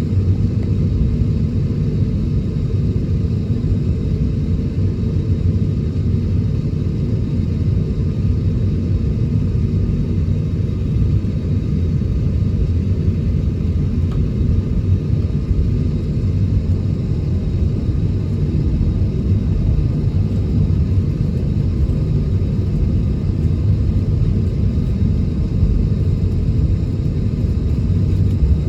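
Steady low rumble inside the cabin of an Airbus A321neo taxiing, its engines running at taxi power.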